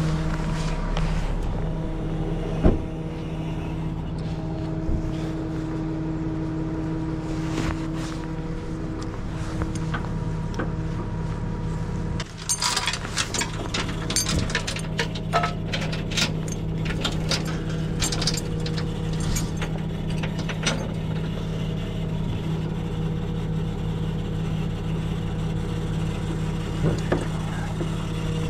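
Tow truck engine running steadily. There is a single knock about three seconds in, and a run of metallic clanks and rattles from about halfway through.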